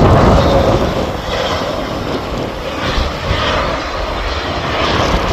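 Airliner landing in strong wind: a steady, loud rumble and rush of engine and air noise.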